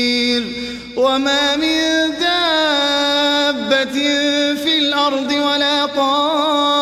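A solo male voice reciting the Qur'an in melodic tajwid style. A long held note fades about half a second in; after a breath, a new drawn-out phrase begins about a second in, its pitch sliding and trembling in ornaments.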